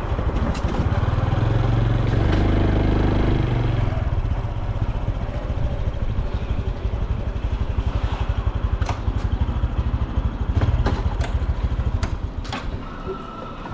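Honda Super Cub C125's single-cylinder engine and exhaust running while ridden, with a steady low pulsing note. It grows quieter in the last couple of seconds, and a few sharp clicks come near the end.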